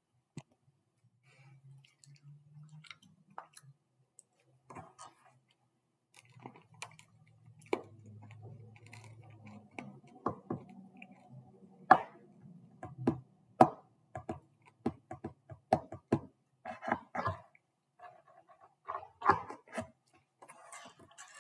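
Close-up crunching and chewing of Red Hots cinnamon candies: a run of sharp, irregular crunches and mouth clicks, coming thicker in the second half.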